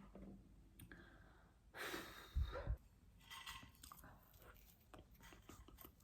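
Close-miked eating mouth sounds: a breathy exhale about two seconds in, with two soft low thumps, followed by scattered small wet clicks of chewing pizza.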